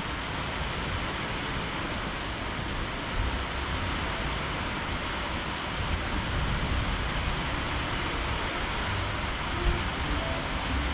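Heavy tropical rainstorm: a steady hiss of downpour, with faint low rumbles now and then.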